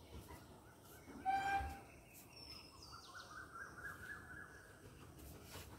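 Faint outdoor birdsong: short high chirps and a warbling call, with one louder pitched call about a second in.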